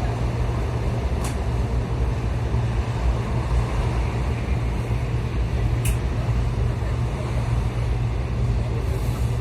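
Steady low rumble inside a suburban electric train car, with two short sharp clicks, one about a second in and one near the middle.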